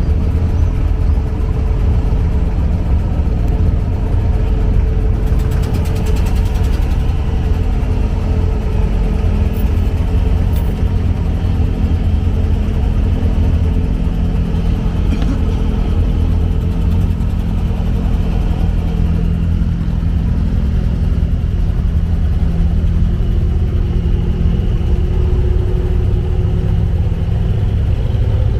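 Inboard diesel engine of an abra, a small wooden Dubai Creek ferry boat, running steadily under way: a loud, unbroken low rumble with a faint hum above it.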